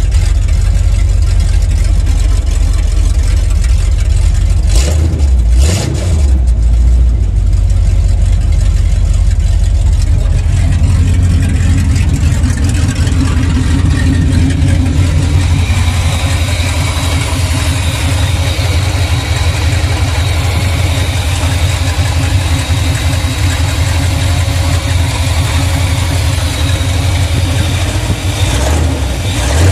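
Chevrolet 454 big-block V8, freshly rebuilt, idling steadily with no air cleaner on its carburetor. A couple of brief knocks about five seconds in.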